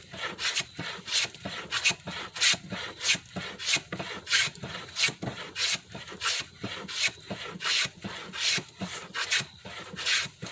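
Hand plane set for a very light cut taking quick, short strokes along a narrow wooden rail to smooth its surface: a repeated scraping hiss, about two strokes a second.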